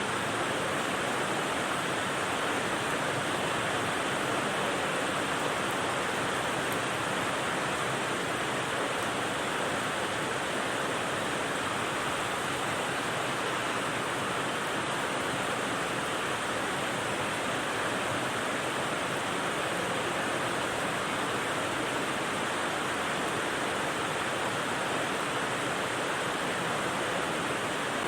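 Steady rain as white noise: an even hiss with no single drops or gusts standing out.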